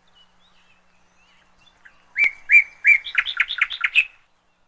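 Bird song: faint scattered chirps, then three clear, evenly spaced notes and a quick run of about eight higher chirps, ending about four seconds in.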